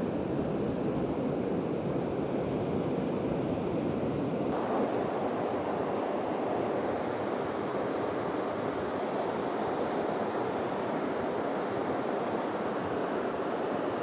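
Steady, even rushing noise of heavy rain and flowing river water.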